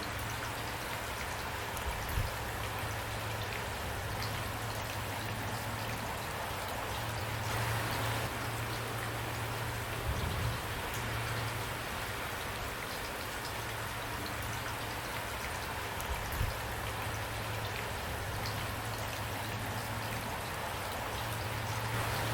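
Steady rain falling, a dense even patter of drops, with a few brief low thumps about two, ten and sixteen seconds in.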